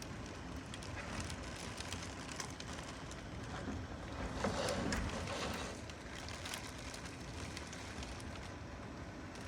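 Hurricane wind gusting in a steady rush, swelling into a stronger gust about four and a half seconds in.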